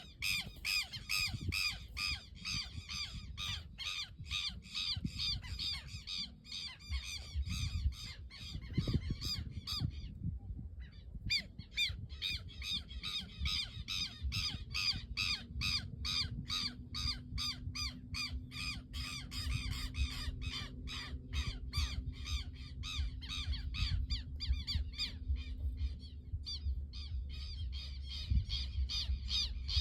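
A flock of birds chirping densely and rapidly, several calls a second. About ten seconds in, they all fall silent at once for about a second and a half, then start again. A low rumble runs underneath.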